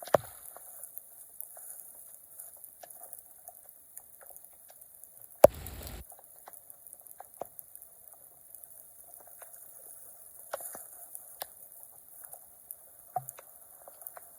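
Flood water draining down a street drain through a whirlpool, bubbling and gurgling with many small pops. There is a sharp click at the start and a short loud rush of noise about five and a half seconds in.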